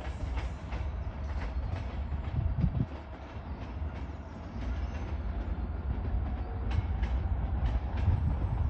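Locomotive-hauled passenger train running away over pointwork: a steady low rumble with irregular sharp clicks as the wheels cross rail joints and points.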